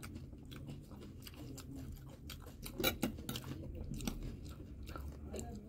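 Close-miked chewing and crunching of crispy chatpate and panipuri shells, a run of small crackly crunches with one sharper, louder crack about three seconds in.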